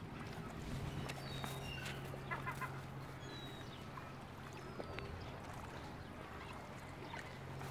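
Small birds chirping with short, scattered high calls, a quick run of three about two and a half seconds in, over a steady low hum.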